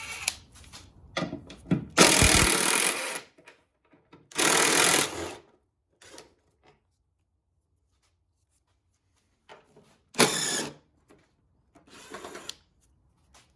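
Cordless power drill/driver spinning in four short bursts, backing out small 7mm bolts; the first burst is the longest and the last is fainter.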